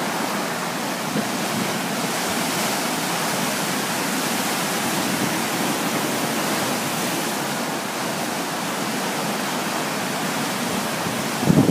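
Strong wind rushing steadily. Near the end a few low thumps of wind buffet the microphone.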